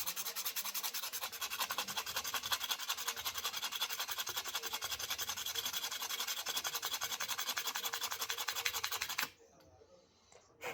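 Rusted steel shock shaft of an RC truck shock absorber being rubbed down by hand with an abrasive, in rapid, even back-and-forth strokes, to clear the rust and smooth it. The rubbing stops suddenly about nine seconds in.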